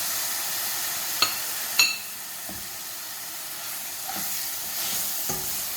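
Onion and spice masala frying in hot oil in a cooking pot, a steady sizzle. Two sharp metallic clinks come in the first two seconds, the loudest sounds.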